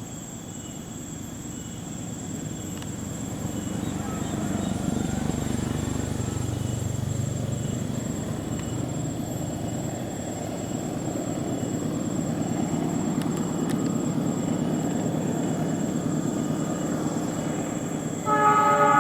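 Diesel locomotive hauling a passenger train up a grade toward the listener, its engine rumble growing steadily louder. Near the end its horn sounds suddenly, a loud chord of several steady tones.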